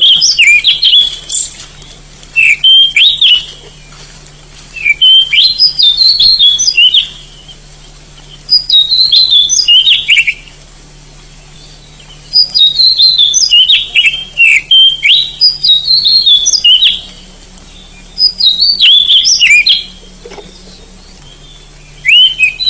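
Oriental magpie-robin (kacer) singing loudly: phrases of whistled notes that glide up and down, one to two seconds long, repeated about every three seconds with short pauses between.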